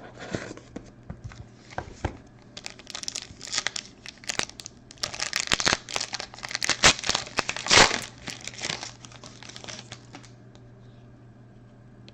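A sealed trading card pack being torn open, its wrapper crinkling and tearing in a run of crackly rustles that is loudest around the middle and stops about two seconds before the end.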